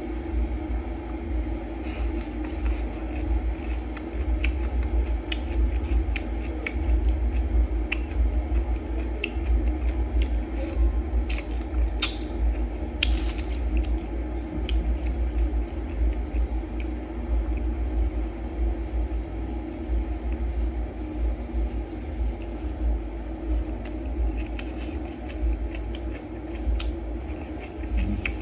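Close-up eating sounds: a man chewing crunchy green papaya salad with peanuts, with scattered sharp crunches and clicks. A steady low hum runs underneath.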